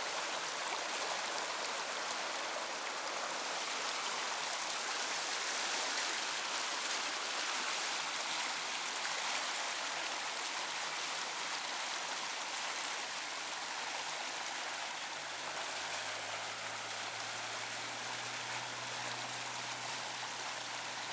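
Steady rush of fast-flowing high water in a flooded creek wash. A faint low hum comes in about two-thirds of the way through.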